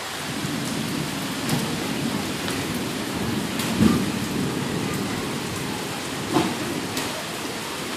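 Heavy rain falling steadily, with sharp taps of drops striking a nearby surface now and then. A louder low rumble swells about four seconds in.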